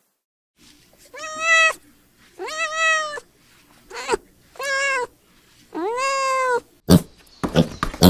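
Kittens meowing: five separate high meows, one of them short, each rising then falling slightly in pitch. Near the end a few short low grunts begin, from a piglet.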